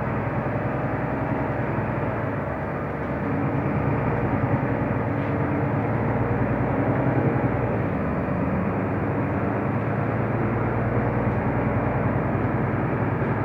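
Mercedes-Benz O345 Conecto LF city bus heard from inside the cabin while driving: a steady drone of engine and road noise with a low engine hum, swelling a little about three seconds in.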